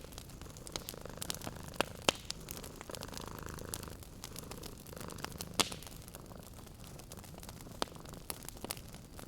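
Wood fire crackling with irregular sharp pops, the loudest about two and five and a half seconds in, over the low steady purring of a cat.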